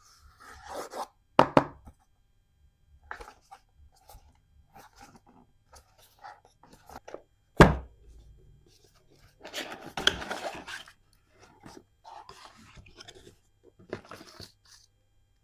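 Unboxing handling noises: a dashcam and its box and accessories being picked up and set down, with two sharp knocks, small clicks and rubbing, and a longer rustle of packaging near the middle.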